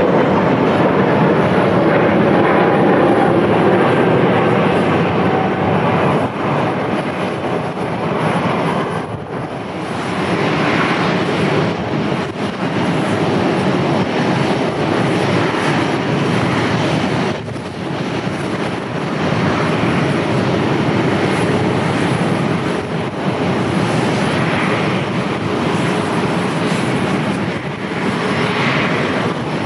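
Airliner landing: a loud, steady rush of engine noise that dips briefly a few times.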